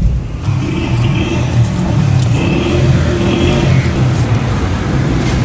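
Car engine running, a steady low hum that shifts a little in pitch.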